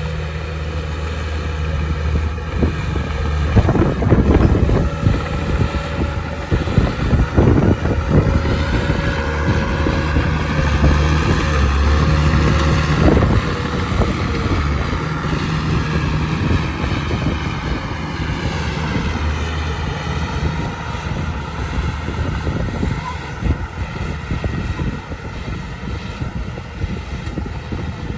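Heavy diesel earthmoving machinery running, its engine drone steady under a whine that rises and then falls in pitch through the middle. Several loud knocks and clatters come in the first half.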